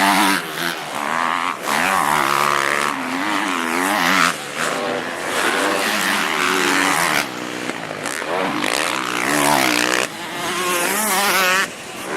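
Motocross bike engines racing, revving up and down over and over with sudden throttle cuts and gear changes.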